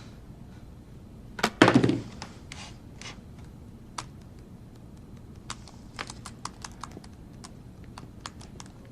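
A thump and clatter about a second and a half in, then a run of light, irregular clicks of typing on a computer keyboard.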